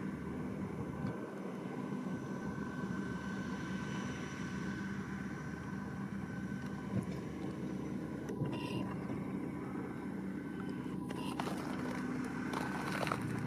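Massey Ferguson 7620 tractor running steadily under load with a McHale V660 baler working behind it: a constant engine drone with a thin, steady high whine over it.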